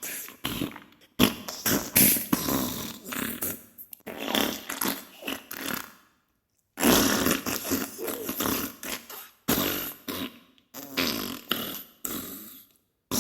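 Diarrhea sound effect: a string of sputtering fart bursts of uneven length, one after another, with a brief silent pause about six seconds in.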